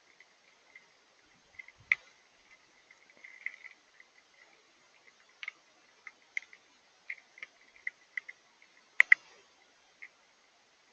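Drops of rain and wet snow ticking irregularly on a hard surface, a few taps a second, with two sharp louder taps close together near the end.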